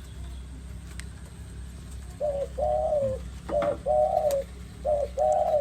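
A dove cooing: three phrases, each a short note followed by a longer one, starting about two seconds in. A steady low hum runs underneath.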